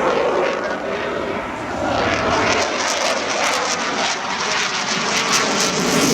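Airplane engine noise from an aircraft flying past, a dense, steady roar with slowly sweeping shifts in pitch, a little louder from about two seconds in.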